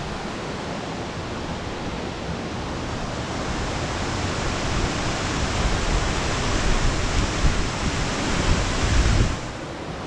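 Rushing waterfall noise that grows louder over several seconds, with a low rumble of wind on the microphone, then falls off suddenly near the end.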